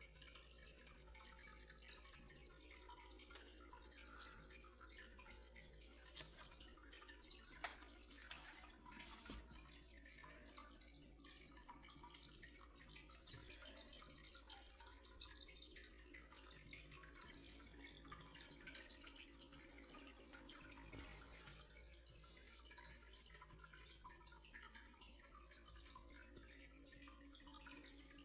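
Near silence: faint room tone with a few soft ticks, the clearest about four seconds in and again near eight seconds.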